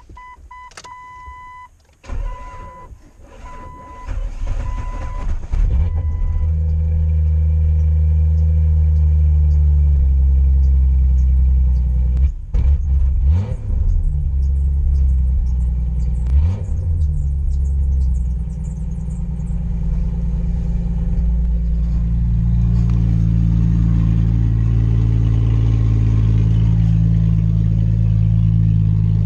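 Jeep Cherokee XJ first start after sitting all winter: a warning chime dings, then the engine cranks and catches about two seconds in and settles into a steady idle. The engine is revved briefly twice, around the middle.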